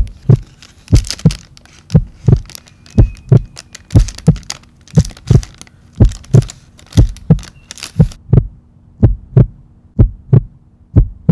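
Heartbeat sound effect: paired lub-dub thumps about once a second over a steady low hum.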